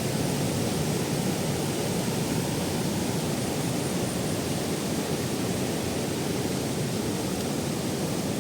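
Waterfall cascading over rock tiers, a steady unbroken rush of water.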